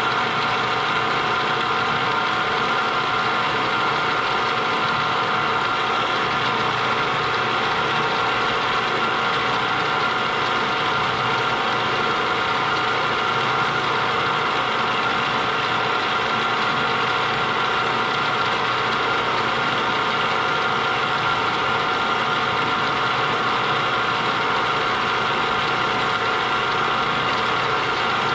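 Small milling machine running steadily at about 450 RPM as a 3/16-inch end mill, fed by hand, cuts a keyway slot; an even mechanical whine of several steady tones that does not change.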